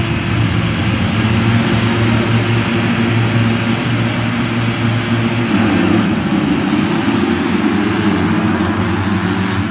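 A pack of motocross race bikes running at full throttle together, a dense, steady blend of many engine notes.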